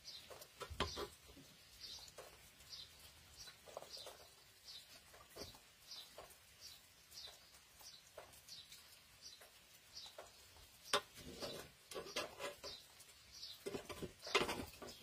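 A small bird chirping steadily, one high short chirp about every half second. A metal slotted spoon scrapes and knocks against a cooking pot and a metal serving tray as rice is scooped out, loudest twice near the end.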